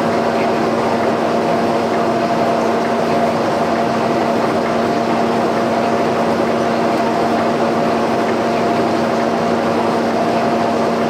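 Portable boring-bar machine running steadily through a bore: a constant motor hum with two fixed tones over an even cutting and drive noise.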